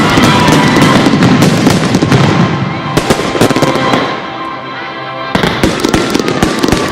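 Fireworks bursting in rapid, crackling volleys over a loud music soundtrack. The bangs thin out about four seconds in, then a new dense barrage starts about a second later.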